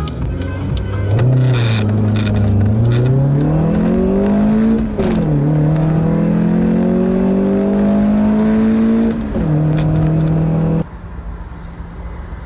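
A 1.4-litre four-cylinder petrol car engine at full throttle, its pitch climbing steadily through each gear. The pitch drops twice at upshifts, about 5 and 9 seconds in, and the engine sound cuts off suddenly near the end.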